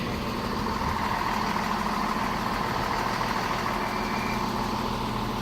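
Class 170 Turbostar diesel multiple unit's engines running steadily at the platform: a steady low drone with a constant higher hum.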